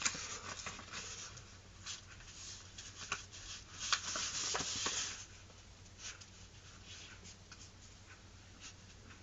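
A sheet of printer paper rustling and crinkling as it is flipped over and folded, with short sharp ticks of handling. It is busiest about four seconds in, then turns faint.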